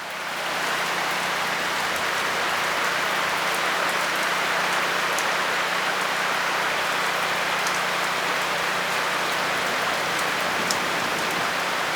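Steady rain after a severe thunderstorm, a even hiss that swells up over the first second and then holds, with a few sharp ticks of drops striking close by.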